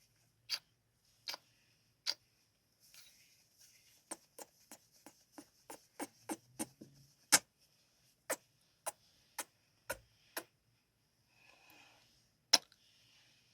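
Close-miked ASMR kissing sounds: a series of short, sharp lip smacks at uneven spacing, a few slow ones first, then a quicker run of a dozen or so, with faint breathy noise between.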